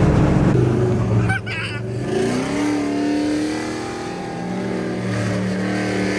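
Car engine running with a rough, loud rumble, then revving up about two seconds in and holding steady at higher revs.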